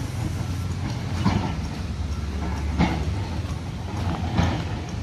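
A vehicle running with a steady low rumble, and a clack about every second and a half.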